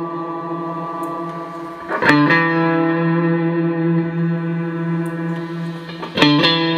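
Clean electric guitar chords played through a Boss RV-6 reverb pedal into Roland JC-120 amps. A held chord rings out, with a new strum about two seconds in and another near the end, each left to ring with a long reverb tail.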